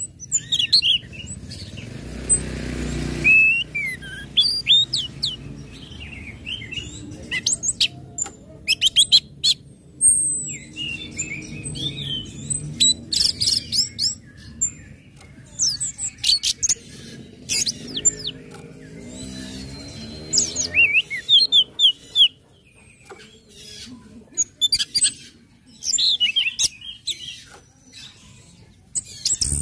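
Orange-headed thrush singing in its varied 'ngecit' and 'ngeplong' style: rapid bursts of sharp, high chirps and quick whistled notes, separated by short pauses.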